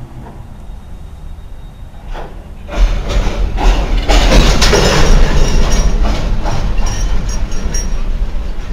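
A train passing close by: a loud rumble with repeated clicks from the wheels on the rails starts suddenly about three seconds in and stays loud.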